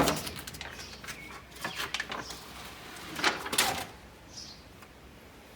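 Short scraping and crinkling handling noises in two brief clusters, about a second and a half in and again past three seconds, as stiff sound-deadening mat is worked and trimmed on a car door panel.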